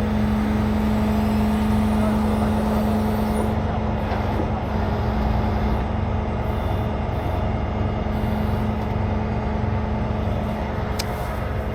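Heavy truck diesel engine running steadily at a constant speed, with a steady low drone.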